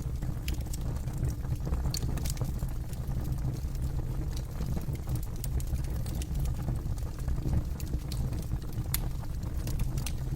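Campfire burning with a steady low rumble and irregular sharp crackles and pops from the wood.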